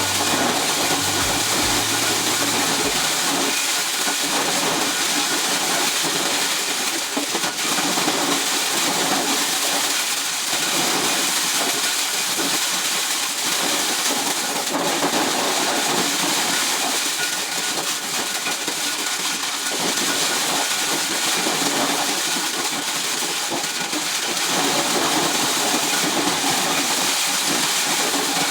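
Corn shelling machine running with a steady, dense rushing hiss.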